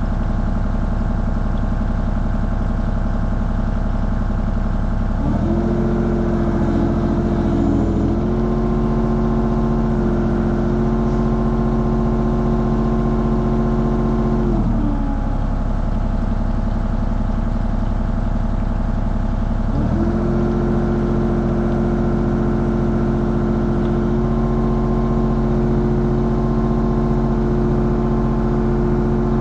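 Mini excavator's engine running steadily, heard from the operator's seat. A stronger, steady hum under load sets in about five seconds in, drops away around fifteen seconds, and comes back about twenty seconds in as the machine works its hydraulics.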